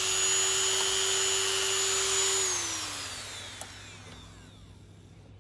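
A high-speed power tool whines at a steady speed while cutting a perspex windshield. About two and a half seconds in it is switched off, and its whine falls in pitch as it spins down.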